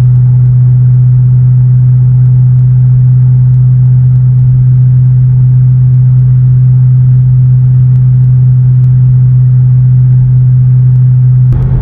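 Exhaust drone heard inside the cabin of a 2017 Mustang GT with a 5.0 Coyote V8 and a Magnaflow Competition cat-back, cruising at steady highway speed: one loud, steady low hum that does not change pitch. This is the highway-speed drone the owner finds unbearable.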